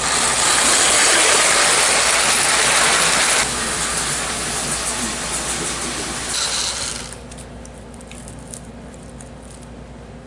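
Tinplate O gauge toy train running on its track, a steady mechanical whirr of motor gears and wheels. It drops in level about three and a half seconds in and again near seven seconds, then goes on more quietly with scattered clicks.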